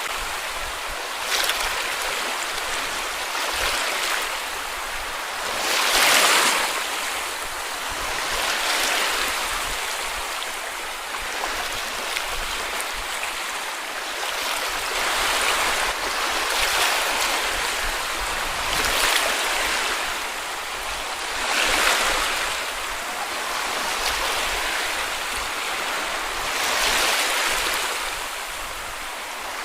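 Small sea waves breaking and washing onto a beach, a new wave every two to three seconds.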